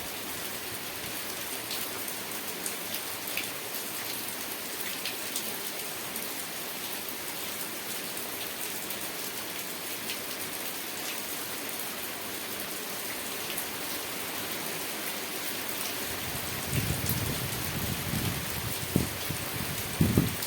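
Steady rain falling, a constant hiss with scattered individual drops ticking. About three-quarters of the way through, a low rumble comes in and swells in uneven surges toward the end.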